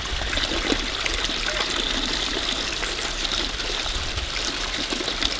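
A shallow stream running and trickling over stones, a steady rushing wash of water.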